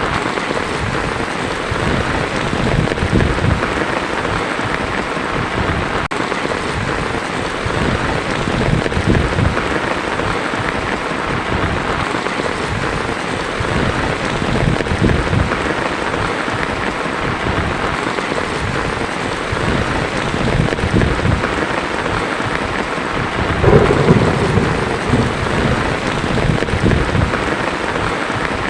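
Heavy rain falling on a tin roof in a steady hiss, with low thunder rumbling at intervals; the loudest rumble comes near the end.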